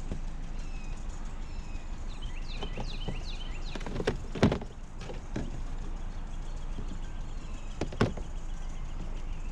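A few sharp knocks and thuds from junk being handled, the loudest about halfway through and another near the end, over a steady low outdoor hum. Small birds chirp in quick runs in the first half.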